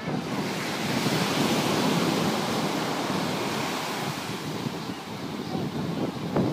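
Ocean surf breaking and washing up a beach, swelling about a second in and slowly easing off, with wind buffeting the microphone.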